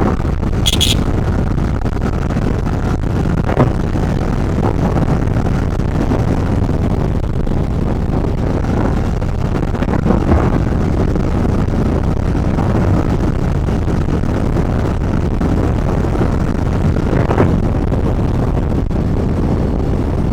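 Motorcycle on the move: steady wind rush over the microphone mixed with engine and road noise, with a few faint ticks.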